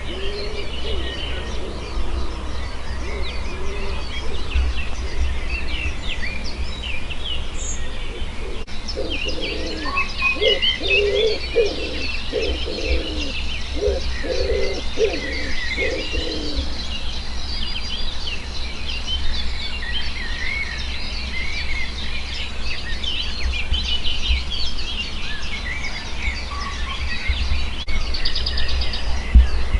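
Dawn chorus of many songbirds, with overlapping chirps and trills throughout. Partway through, a low cooing call repeats about seven times. A steady low rumble runs underneath.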